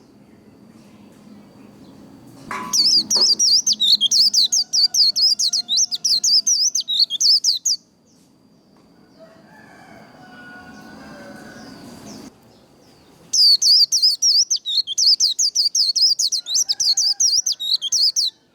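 A white-eye (vành khuyên) singing its fast 'líu' fighting song, a string of rapid, high, tumbling notes. It comes in two bouts of about five seconds each, with a pause of several seconds between them.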